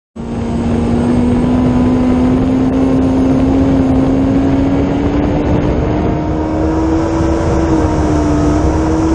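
Yamaha FZR jet ski's engine running flat out at high speed, its note climbing slowly and steadily as it keeps accelerating, over a constant rush of wind and water noise.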